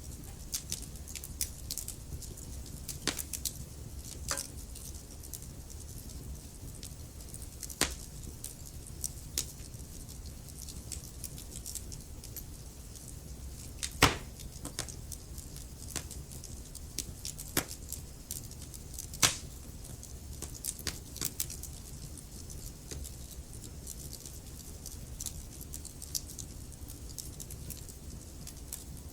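Wood fire burning in a fireplace: a steady low rumble of flames with irregular sharp crackles and pops, a few louder pops standing out about halfway through.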